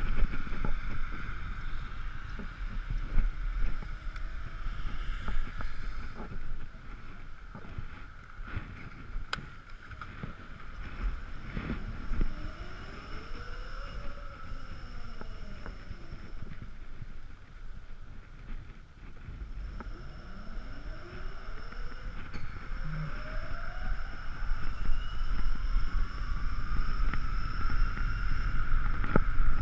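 Ekoway ML5000 electric scooter riding in the rain, its electric motor whining over wind and wet-road noise. The whine rises and falls once near the middle, then climbs steadily in pitch as the scooter speeds up toward the end.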